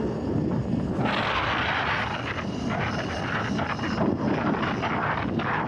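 Steady wind rushing over the camera microphone.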